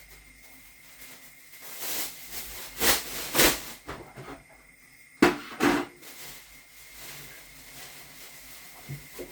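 Plastic bin liner rustling and swishing in several loud strokes as it is shaken out and fitted into a kitchen bin, with a sharp knock about five seconds in.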